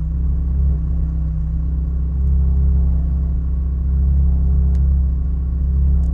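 Race car's engine and drivetrain running at a steady pace on track, a constant deep rumble heard from inside the cockpit, swelling and easing only slightly.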